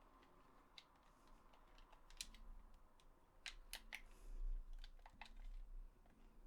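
Faint, irregular plastic clicks, about half a dozen, from the buttons of a DualShock 4 controller being pressed, with a soft low bump about four seconds in.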